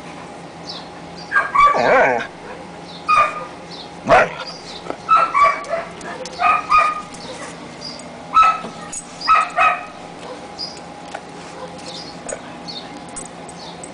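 Husky puppies yipping and barking in a string of short, high calls, with faint whimpering squeaks in between; the calls stop about ten seconds in.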